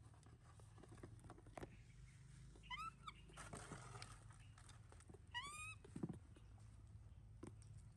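A baby monkey gives two short, high-pitched calls that rise in pitch, one a little under three seconds in and one about five and a half seconds in, with faint clicks and rustling between them.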